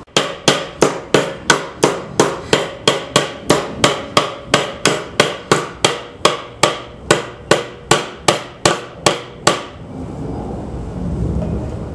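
Hammer driving nails into the wood of a birdhouse: a steady run of strikes, about three a second, that stops about nine and a half seconds in.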